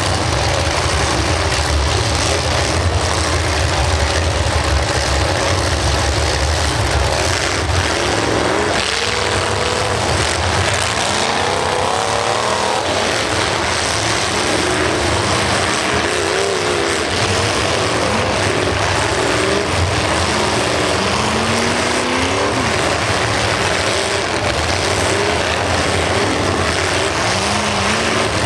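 Many demolition derby cars' engines revving hard at once, the pitch rising and falling as they accelerate and reverse, with occasional knocks of cars colliding.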